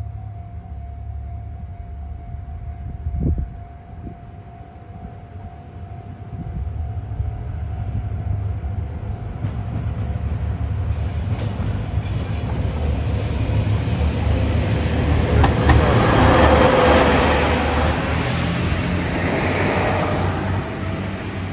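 Diesel limited-express train approaching and running over a level crossing: its rumble builds to a peak about 16 to 17 seconds in, with wheel clatter over the rail joints. At first the crossing's steady warning tone is heard, then the train drowns it out.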